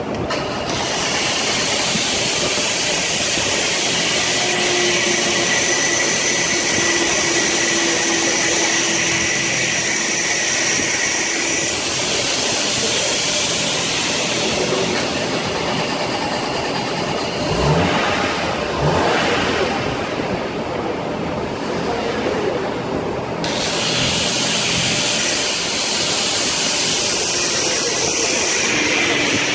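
An engine running steadily with a loud high hiss over it. The hiss falls away for about ten seconds in the middle and then comes back.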